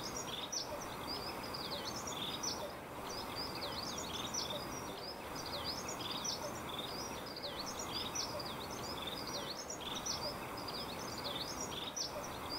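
Birds chirping: many quick high chirps, in a cluster that repeats the same way about every two and a half seconds, over a steady background hiss.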